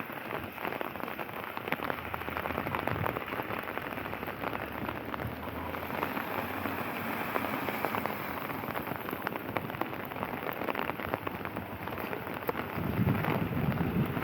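Steady rain falling, with a dense, continuous crackle of drops striking close to the microphone. A low rumble comes in near the end.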